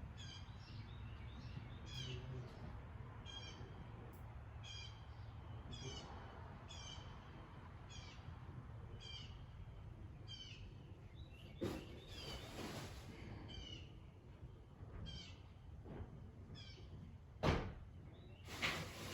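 A 1981 variable-speed ceiling fan coasting down after being switched off, giving a faint short chirp once per turn that comes about every two-thirds of a second at first and spreads out to about once a second as it slows, over a low steady hum. A couple of sharp knocks come near the end.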